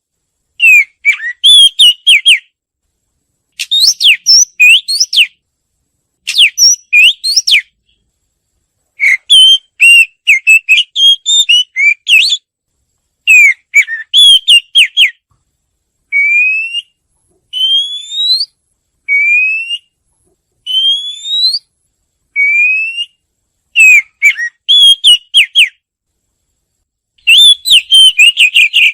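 Oriental magpie-robin singing: phrases of quick, varied whistled notes, each a second or two long, with short pauses between them. Midway comes a run of single rising whistles, about one every second and a half, before the varied phrases return.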